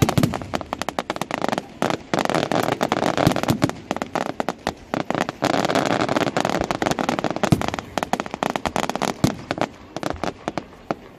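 Fireworks display going off: a dense run of sharp cracks and pops in quick succession, thickest from about two to six seconds in, then thinning out.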